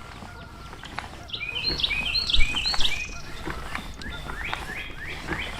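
Birds calling: a quick run of short chirps about a second in, then another run of short rising notes near the end, over a low outdoor rumble with a single low thump partway through.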